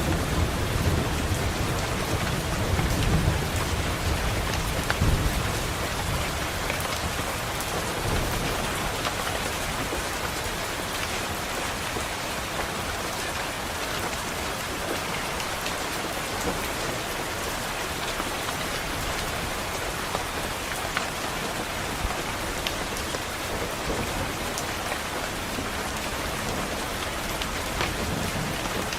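Steady rain pattering. Over the first few seconds a low roll of thunder rumbles and then fades away.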